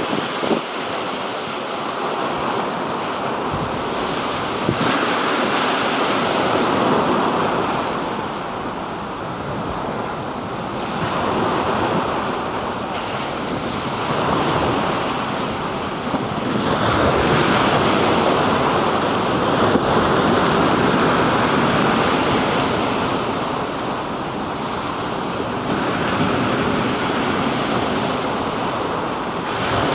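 Black Sea waves breaking and washing on the shore, the surf swelling and falling back every few seconds, with wind buffeting the microphone.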